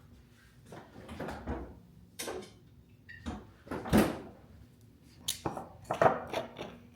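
Handling noises: a run of knocks, bumps and rustles, as of a drawer, door or wooden things being moved. The loudest knock comes about four seconds in, with another cluster of knocks near the end.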